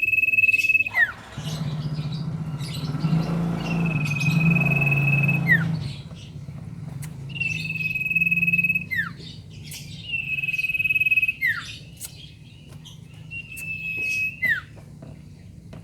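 Common iora (sirtu) singing: a series of long, level whistles, each dropping in a quick downward slur at the end, about five in all, with pauses between them. A low hum runs underneath, loudest early on.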